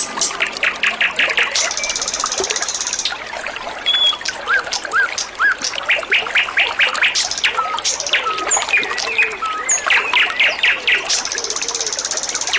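Small songbirds chirping and whistling over steadily trickling water, with fast repeated trills several times and a high buzzing note twice. This is the kind of water-and-birdsong recording played to cage birds to bring them into song.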